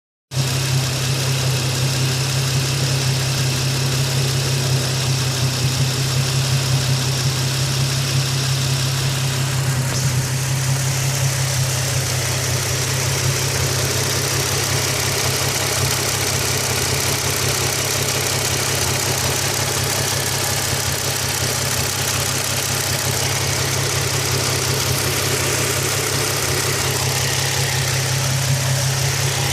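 Nissan 350Z's 3.5-litre V6 engine idling steadily, with a fast ticking from the top of the engine whose cause the owner does not know.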